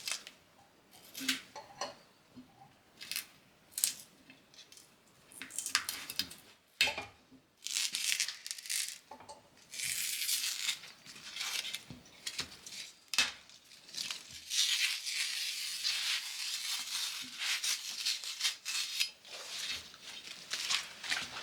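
Low-tack PVC floor tape being peeled off a freshly painted steel wheel rim: a few scattered clicks and knocks at first, then from about eight seconds in a long, hissing, crackling rip of tape coming away, in several pulls.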